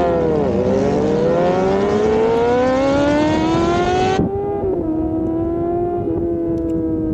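Motorcycle engine accelerating, its pitch climbing steadily for about four seconds. Then comes a sudden break with a short knock, the hiss drops away, and the engine tone goes on lower, slowly falling.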